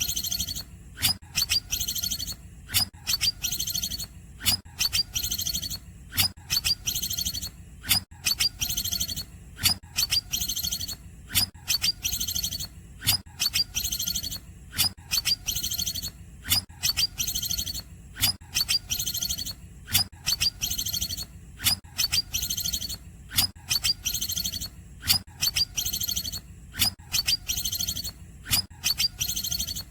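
Greater green leafbird (cucak ijo) singing a repeated, sharp high-pitched phrase that imitates cungkok calls, the clusters of notes coming about once a second.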